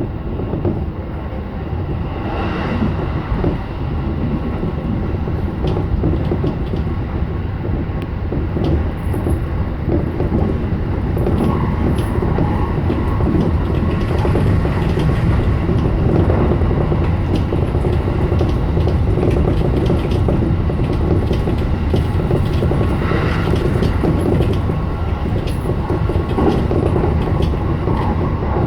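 JR E233 series 7000 electric train running along the track: a steady rumble of wheels on rail with scattered clicks, growing louder over the first half as it picks up speed.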